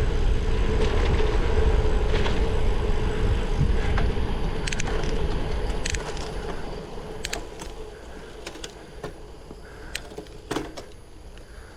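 Wind and road rumble on the microphone of a moving bicycle, with a steady hum. The rumble eases off about halfway through, leaving a quieter background with scattered sharp clicks and ticks.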